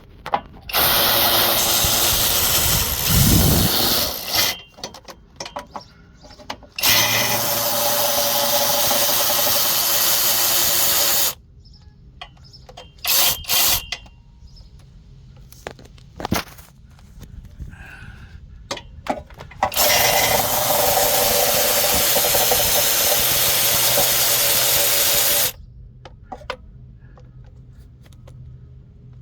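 A handheld power tool running in three long runs of several seconds each, with a short double burst between them, as bolts are spun out of the engine's timing cover.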